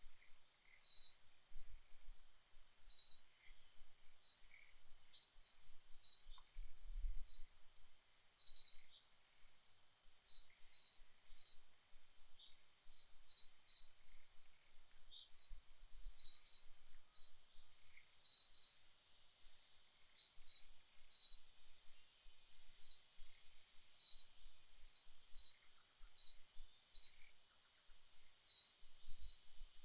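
Short, high chirps repeated irregularly, about one or two a second: a bird calling. A steady faint high hiss runs underneath.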